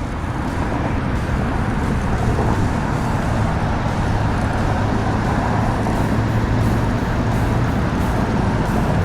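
Steady low rumble and hiss of outdoor background noise, with a low hum that grows stronger in the middle.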